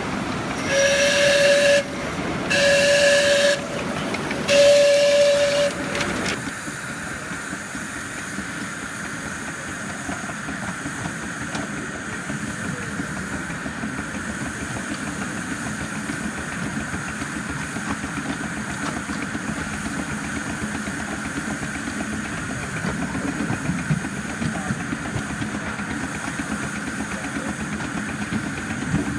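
Steam whistle of a 7.25-inch gauge live-steam Baldwin C-19 locomotive model blowing three blasts of about a second each, followed by a steady hiss and low rumble from the running locomotive.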